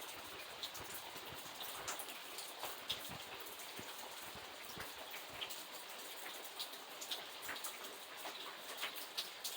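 Steady rain falling, with many separate drops ticking sharply on a hard surface at irregular moments.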